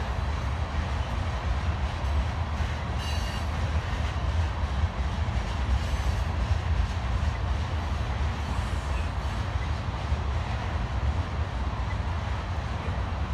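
Tank cars of a loaded BNSF oil train rolling past at steady speed, a continuous low rumble of wheels on rail.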